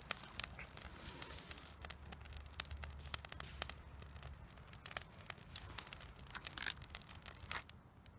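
Campfire crackling, with frequent sharp pops and snaps, while wind rumbles on the microphone for the first four seconds or so; the crackle thins out near the end.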